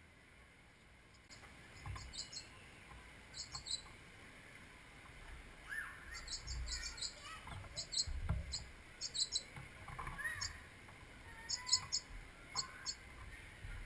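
Small birds chirping: short, high notes in quick clusters of two to four, repeated throughout, with a few lower gliding calls mixed in. A low rumble swells and fades about midway.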